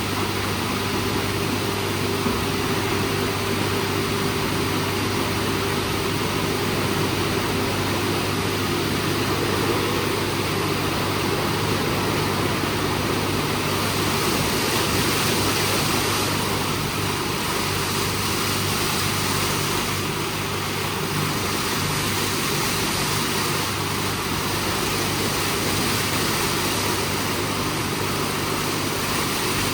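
WashTec SoftCare² Pro rollover car wash running through its programme: a steady rushing noise over a constant low motor hum.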